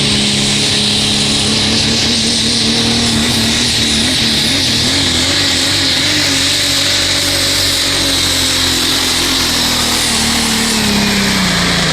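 Diesel pulling truck's engine at full throttle during a sled pull, a loud steady howl with a high whine on top. The pitch wavers, then drops near the end as the truck comes off the throttle.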